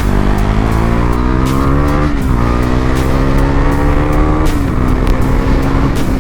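KTM Duke 390's single-cylinder engine accelerating hard, its pitch rising with the revs. The pitch drops briefly at two upshifts, about two seconds in and about four and a half seconds in, then holds fairly steady.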